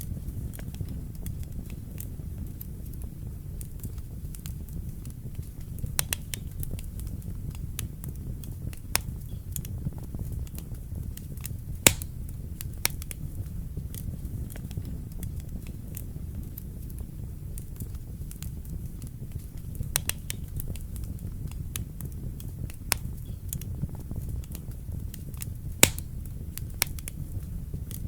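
Wood fire burning in a fireplace: a steady low rumble of flames with irregular crackles and sharp pops, two louder pops about twelve seconds in and near the end.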